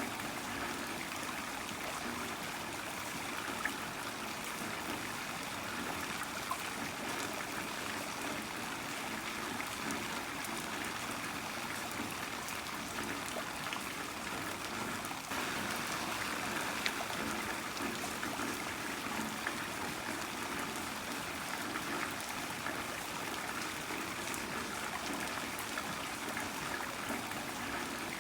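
Heavy rain falling steadily, with scattered sharper drop ticks; it gets slightly louder about halfway through.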